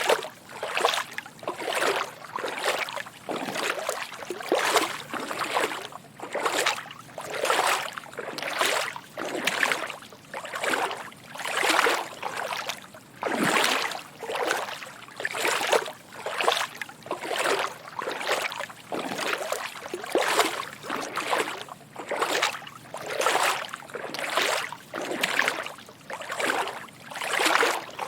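Footsteps wading through shallow water: a steady walking rhythm of soft sloshes and splashes, about one to two steps a second.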